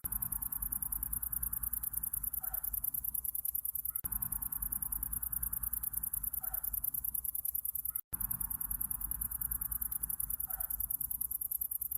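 Night insects, crickets or katydids, keeping up a steady, very fast high-pitched pulsing trill over a low rumble. A short faint call recurs about every four seconds, and the sound cuts out for an instant about two-thirds of the way through.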